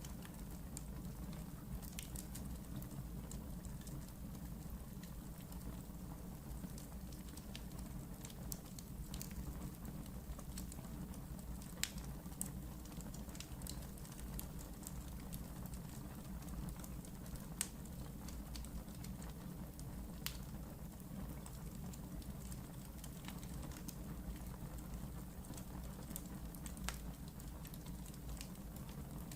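Wood fire burning in a fireplace: a steady low rumble of flames with scattered sharp crackles and pops, a few louder snaps among them.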